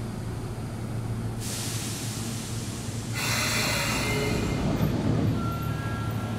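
Sotetsu electric commuter train standing at the platform with a steady low hum; about a second and a half in a compressed-air hiss starts, growing louder about three seconds in. Near the end a short repeating electronic beep begins.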